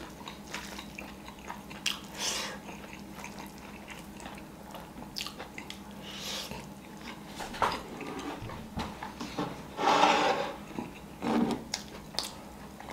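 Chewing and lip smacks of a person eating biryani rice by hand: a scatter of short clicks and smacks, the loudest and longest about ten seconds in.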